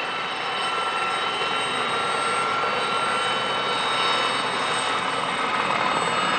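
Helicopter in flight: a steady turbine whine over a rushing noise.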